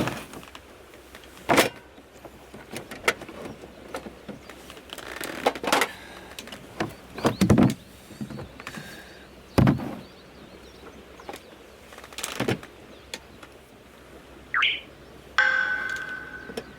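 Irregular knocks and thuds, a dozen or so spaced a second or two apart. Near the end comes a brief rising chirp, then a short ringing tone.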